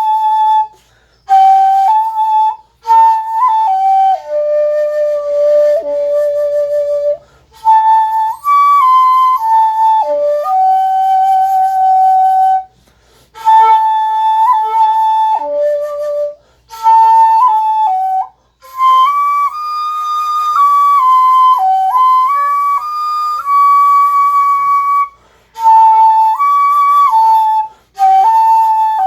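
Natural-bore jinashi shakuhachi, a bamboo end-blown flute, played in its high register: held notes stepping up and down in pitch, in phrases broken by short breath pauses. It is a test of the upper register, which is hard to make resonant on a jinashi flute without a narrowed bore end; the maker judges that this one reaches the standard.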